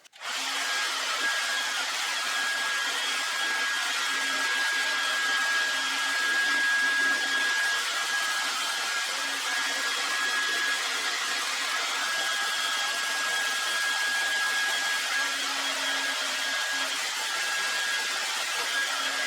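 A handheld hot-air blower switches on abruptly and runs steadily: a rush of air with a steady high whine, heating sticker adhesive so the bike's stickers can be peeled off.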